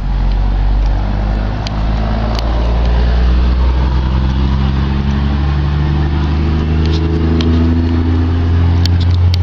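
A low, steady engine hum, like a motor vehicle running close by, its pitch edging up slightly in the second half and stopping just after the end.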